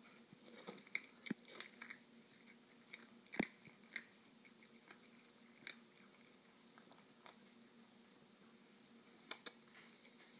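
A cat chewing its food fast: faint, scattered short chewing clicks, the strongest about three and a half seconds in, with a small cluster near the end.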